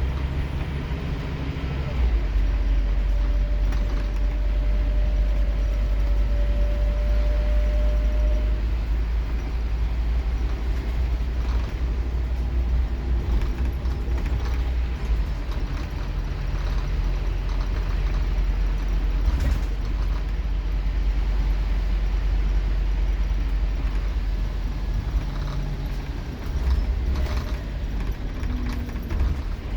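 Scania K230UB Omnilink bus engine running under power, heard from on board as a steady low drone that gets louder about two seconds in, with occasional clicks and rattles.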